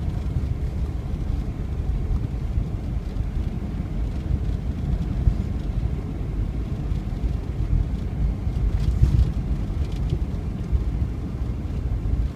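Steady low rumble of a vehicle driving on a snow-covered road, heard from inside the cabin: engine and tyre noise without any sudden events.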